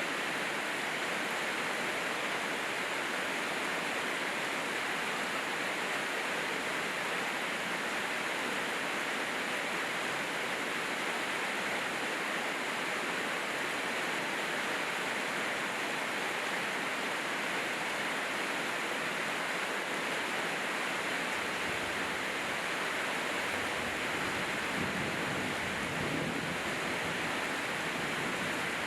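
Steady heavy rainfall, an even hiss that keeps the same level throughout.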